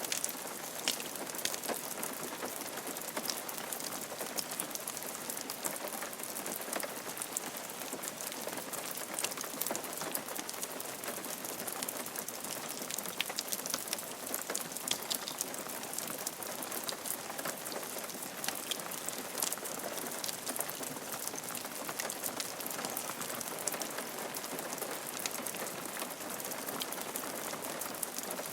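Steady rain falling on a roof: an even hiss with many individual drops ticking sharply throughout.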